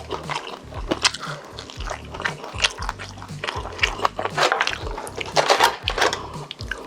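Close-miked eating sounds: a person chewing chicken, with irregular crunches and wet, sticky mouth clicks, busiest about four to six seconds in.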